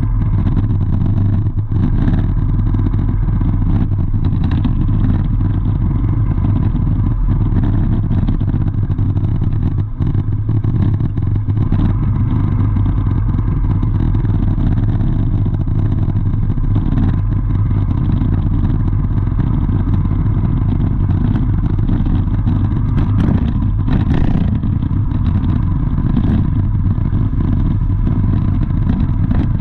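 Steady low rumble of a running vehicle engine, unchanging throughout, with a few brief knocks.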